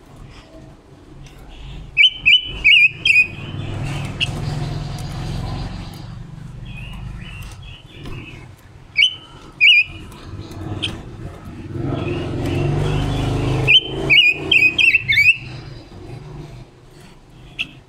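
Caged silver-eared mesia giving short, sharp call notes in quick runs: a burst about two seconds in, two separate notes around the middle, and another burst about three quarters through. Between the runs a broad rushing noise swells twice.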